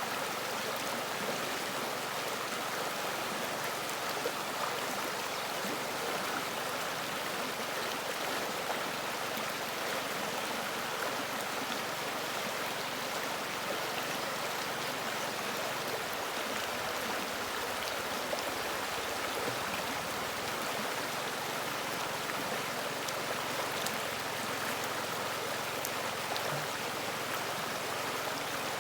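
A river's flowing water, a steady rushing with small splashes and droplet ticks.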